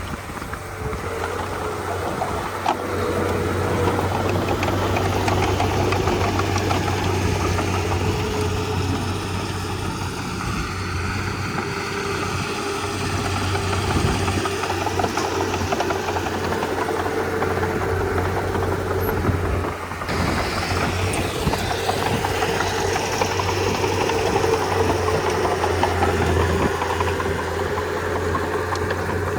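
Komatsu D31P crawler bulldozer's diesel engine running steadily while the machine works, with a brief dip in level about twenty seconds in.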